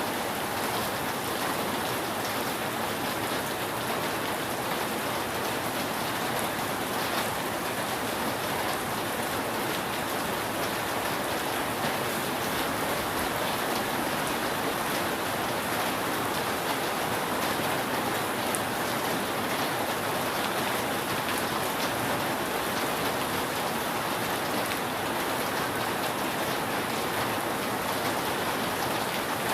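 Steady rain falling on a roof, an even hiss of drops with no thunder and no change in strength.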